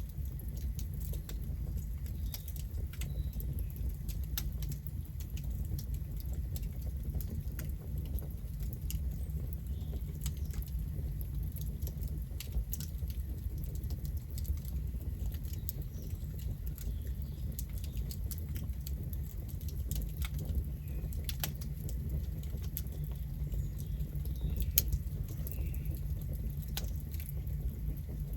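Wood campfire crackling, with sharp pops and snaps at irregular intervals over a steady low rumble.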